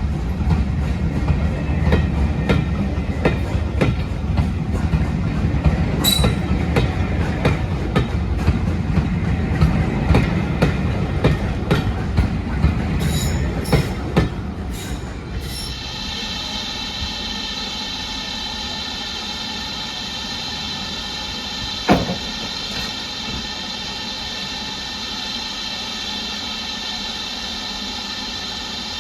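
Train running on the rails with a low rumble and a quick run of clicks from the wheels, which gives way about halfway through to a steady hum of several held tones. One sharp knock comes about two-thirds of the way in.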